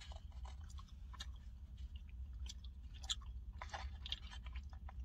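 Faint, close-up chewing of carne asada steak and rice, with small irregular mouth clicks over a low steady hum.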